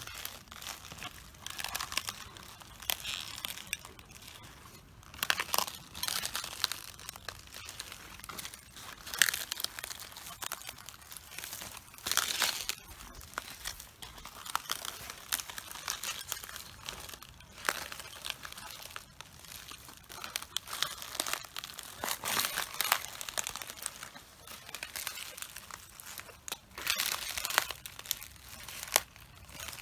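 Footsteps crushing cabbages: an irregular run of crunching and crackling as the leaves split and tear underfoot, some crunches louder than others.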